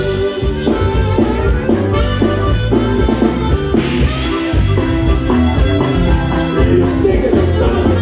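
Norteño band with saxophone playing an instrumental passage: a melody line in short, stepping notes over bass and drums.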